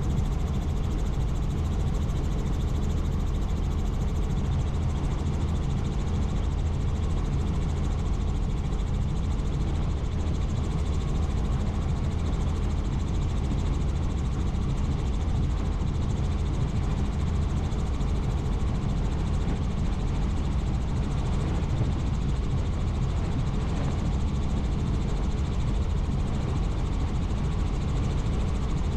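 Helicopter in flight, its rotor and engine giving a steady, unchanging drone.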